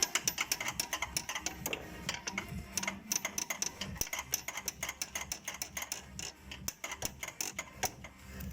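Rapid, irregular metallic clicking and tapping, several clicks a second, as a seized front-suspension part is rocked and worked loose by hand.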